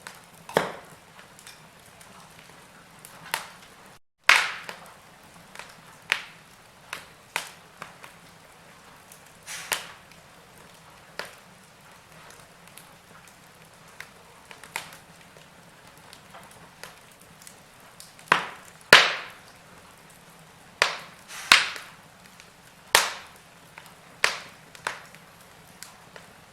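Wood fire crackling: irregular sharp pops and snaps, some single and some in quick pairs, over a faint steady hiss. The sound cuts out completely for a moment about four seconds in.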